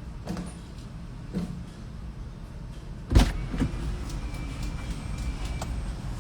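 Steady low rumble of a car with a few light knocks, and one loud thump about three seconds in.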